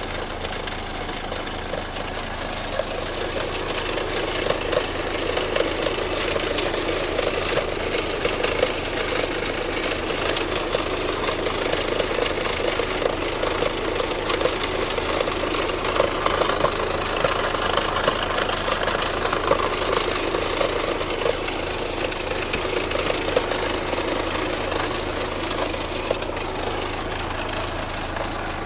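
High-mileage VW Jetta engine running with a fast, steady clatter over a low hum.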